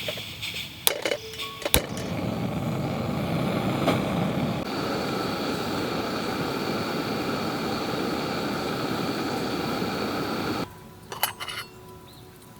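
A few sharp metal clinks, then a steady rushing hiss for about nine seconds that cuts off suddenly, followed by a few more light clinks.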